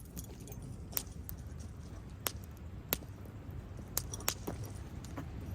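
Wood campfire crackling, with a handful of sharp pops over a low steady rush.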